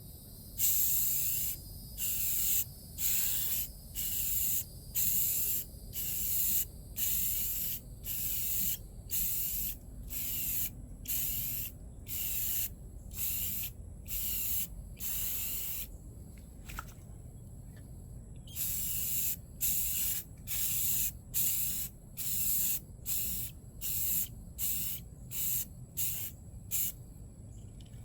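Aerosol spray paint can spraying in short hissing bursts, about one a second, laying on a second coat of paint. The bursts pause for a couple of seconds a little past the middle, then resume at the same pace.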